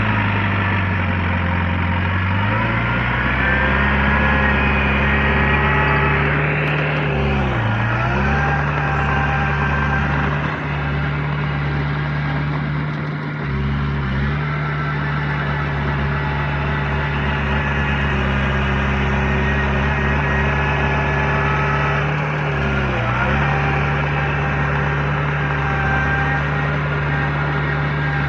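Diesel engine of heavy earthmoving machinery running steadily; its pitch dips briefly and recovers several times, near the start and at roughly 8, 14 and 23 seconds in.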